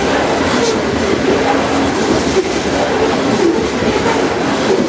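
Freight train of open-top hopper cars rolling past close by: steady rumble and rail noise from the wheels on the track, with a wavering squeal from the wheels running through it.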